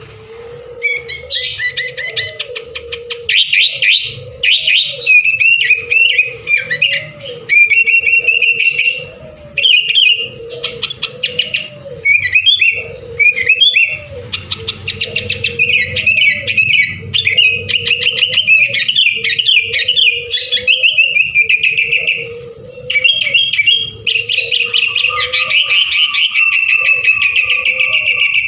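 Sooty-headed bulbul singing busily and without pause: fast, bubbling, chattering phrases, dense and loud throughout, of the kind played as a lure to set other birds singing.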